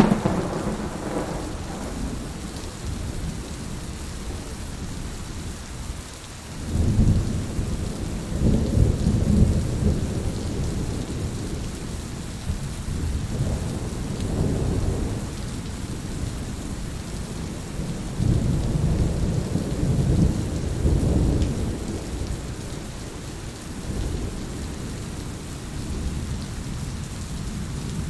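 Steady rain falling, with rolling thunder: a rumble fading just after the start, and long low rumbles swelling about seven seconds in and again around eighteen to twenty-two seconds.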